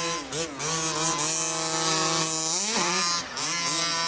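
Modified two-stroke gas engine of a 1/5-scale HPI Baja 5T RC truck buzzing at high revs, its pitch wavering as the throttle is worked. Near three seconds in it revs up sharply, then briefly drops off before buzzing on.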